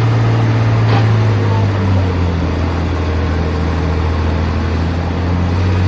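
Tractor engine running loud and steady; its pitch steps down about a second and a half in. A brief sharp click comes about a second in.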